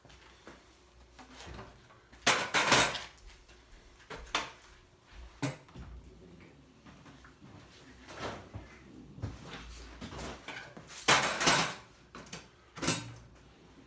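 Intermittent clattering and knocking of hand work: two longer rattling bursts about two seconds in and again near eleven seconds, with a few single knocks between and after.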